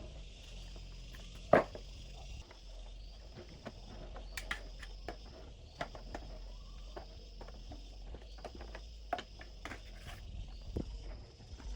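Insects chirping steadily in a repeating pattern, with scattered clicks and knocks; one sharp knock about a second and a half in is the loudest.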